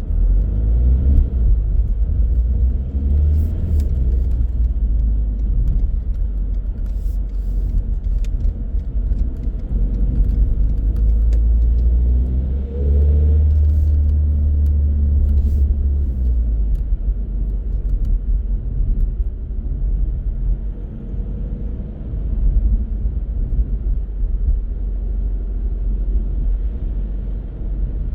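Car driving on the road: a steady low rumble of tyre and engine noise, swelling twice, a few seconds in and again about halfway through.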